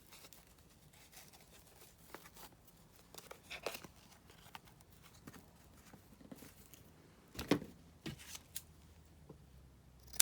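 Faint rustling and small taps of paper and lace being handled as lace is tied onto a paper journal card, with one louder rustle about seven and a half seconds in.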